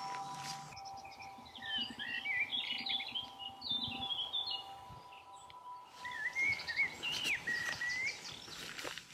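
A songbird singing in two warbling phrases of quick notes that glide up and down, the second ending in a rising-and-falling note and a held note, over a faint steady hum.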